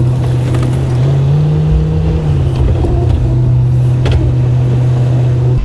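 Plow truck's engine running as it drives, its pitch rising slightly about a second in and settling back down a little after two seconds.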